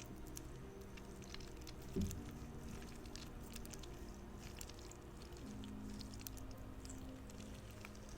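Squishy spider fidget toy being squeezed and handled, giving many small sticky crackles and squelches, with one louder bump about two seconds in. Soft background music of slow held notes plays underneath.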